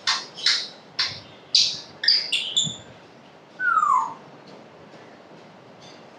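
African grey parrot calling: a run of short harsh squawks, about two a second, then a single downward-sliding whistle a little past halfway.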